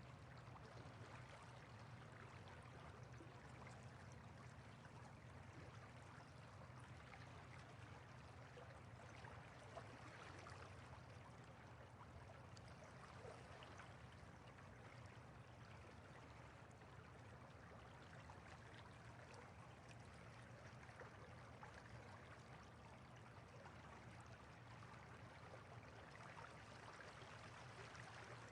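River water flowing: a faint, steady rush with small splashes and trickles.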